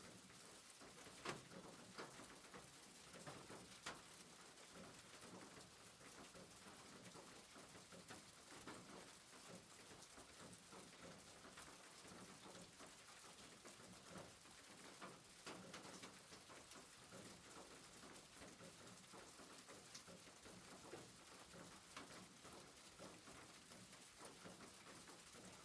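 Faint, steady rain pattering on a rooftop, with occasional sharper drops ticking through it.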